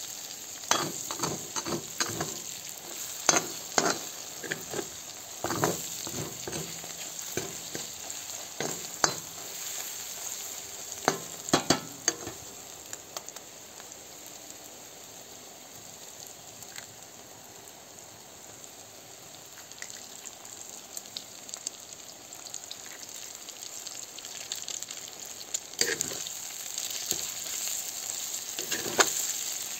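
Mushrooms and onions sizzling in oil in a black wok, with a metal spatula scraping and knocking against the pan as they are stirred during the first dozen seconds. The stirring then stops and only the steady sizzle goes on, until scraping starts again near the end.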